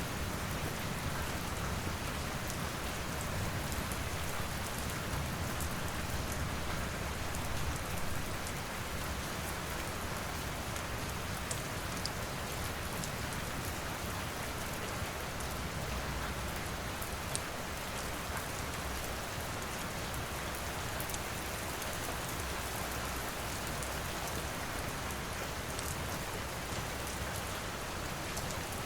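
Steady rain pouring, a dense even hiss, with scattered faint sharp ticks through it.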